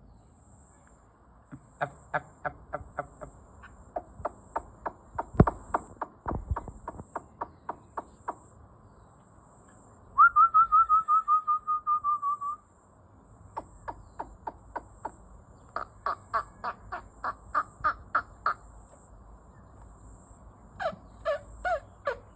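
Songbird calling: runs of short, sharp notes at about three or four a second, with a loud, fast trill of about a dozen notes near the middle.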